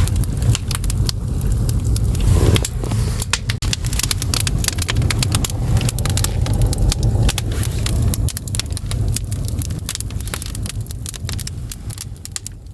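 Firewood burning in an agungi, a traditional Korean wood-fired furnace: a steady low rumble of the fire with frequent sharp crackles and pops, fading out at the very end.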